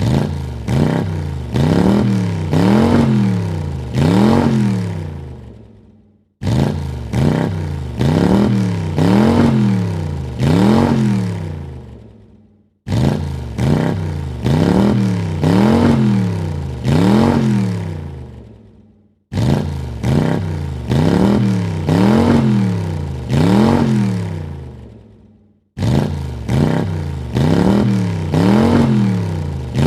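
Car engine revved in four quick blips, its pitch rising and falling with each, then dying away. The same short burst repeats five times, about every six and a half seconds, each one cutting in suddenly.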